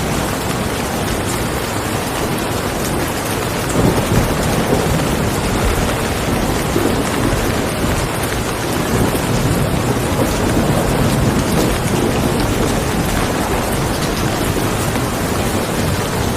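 Steady, heavy rain. A low rumble swells about four seconds in and again around the middle.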